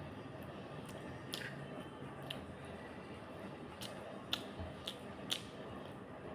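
A person eating close to the microphone: a series of irregular sharp, wet mouth clicks and smacks while chewing, about eight in all, the loudest near the end.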